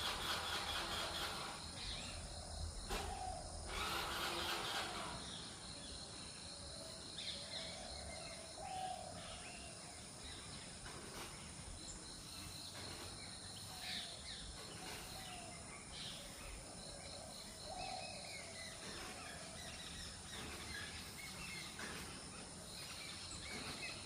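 Spotted dove cooing: soft, low, repeated coo notes heard faintly over steady outdoor background noise, with a few higher chirps from other birds. The background noise is loudest in the first few seconds.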